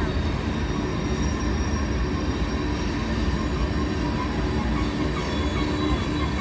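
Freight train of covered hopper cars rolling steadily past: a continuous rumble of steel wheels on rail, with a faint steady whine over it.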